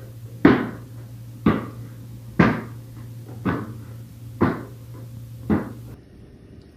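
Six knocks or thumps at an even pace, about one a second, each with a short ring after it.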